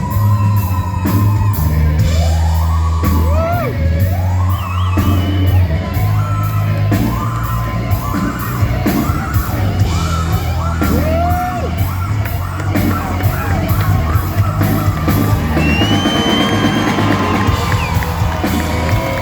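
Live rock band playing in a large hall, with steady bass notes and a regular drum beat, while voices yell and whoop over the music.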